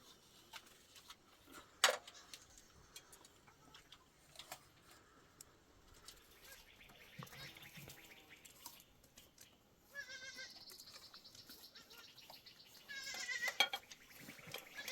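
Goats bleating in several long, wavering calls, the loudest starting about ten seconds in, with a sharp knock about two seconds in.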